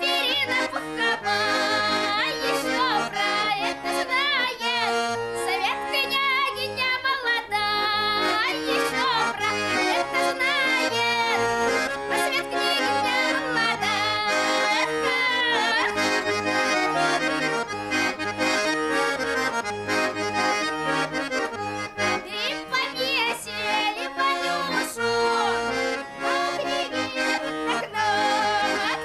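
Russian garmon (button accordion) playing a folk melody with many quick note changes.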